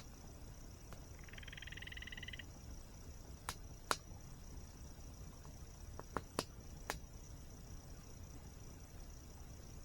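Campfire wood crackling, with about five sharp pops in the middle, over a steady high insect drone and a low rumble of falling water. A short pulsed frog call sounds about a second in.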